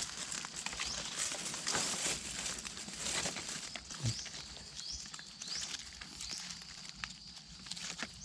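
Irregular crackles and rustling of footsteps moving through dry leaf litter and undergrowth, with a few faint high rising chirps in the background.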